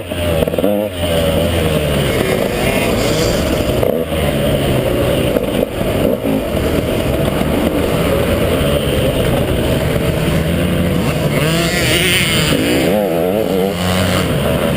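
KTM 150 XC two-stroke dirt bike engine running hard throughout, its revs rising and falling as the throttle opens and closes, with the sharpest swings near the start and about twelve seconds in.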